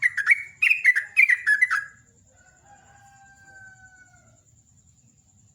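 Yellow-vented bulbul (trucukan) singing a rapid, bubbly run of short falling notes in three quick bursts, then falling silent after about two seconds. A fainter, long whistle follows, falling slightly in pitch.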